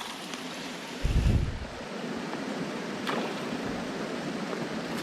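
Steady rushing of creek water, an even hiss. About a second in there is a brief low rumble, and there is a faint click a couple of seconds later.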